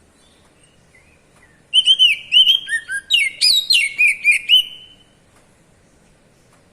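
Oriental magpie-robin (kacer) singing a loud run of clear, arching whistled notes in the open 'ngeplong' style, starting about two seconds in and lasting about three seconds, ending on one drawn-out note.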